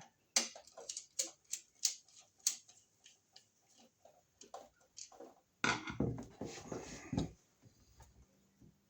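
Irregular small clicks and taps of hand tools and electrical wire being handled, followed about six seconds in by a denser scraping, rustling stretch lasting a second and a half.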